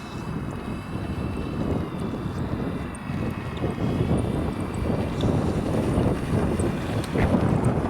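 C-130 in flight: a steady, high engine and propeller whine that wavers slightly in pitch and grows louder. Heavy wind rumble on the microphone lies under it.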